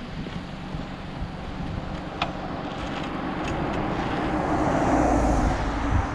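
Motorcycle engine running on the road with wind rushing over the microphone, growing gradually louder until about five seconds in. A single brief click a little over two seconds in.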